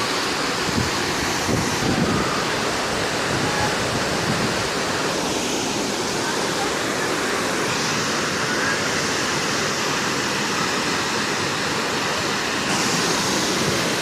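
Muradiye Waterfall's water pouring steadily, a dense and even rush of noise.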